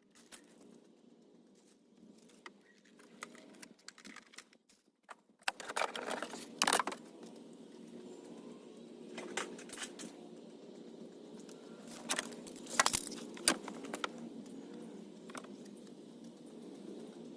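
Small hard objects being handled, clinking and rattling in scattered bursts, over a steady low hum that starts about five seconds in.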